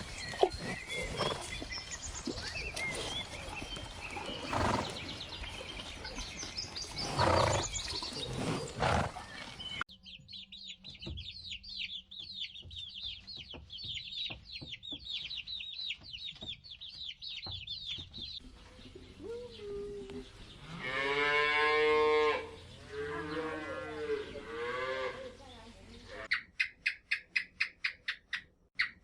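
A sequence of animal sounds. First comes dense, mixed farmyard noise with calls. Next is a long run of rapid, high chirping, then a loud, drawn-out, pitched animal call about 21 seconds in, followed by shorter calls. Near the end a fast, regular electronic ringing pulse starts.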